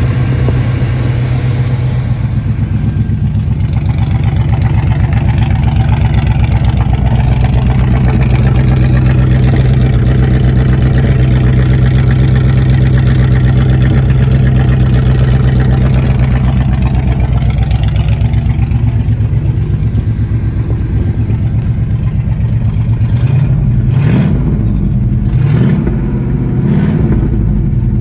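1978 Pontiac Trans Am's V8 running steadily at idle, after a start that was not fully cold. Near the end the idle turns uneven, with a few short surges like light throttle blips.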